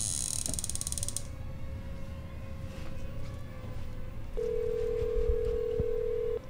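Telephone ringback tone: one steady two-second ring tone of an outgoing call, heard over a low rumbling drone. A high buzzing rattle cuts off about a second in.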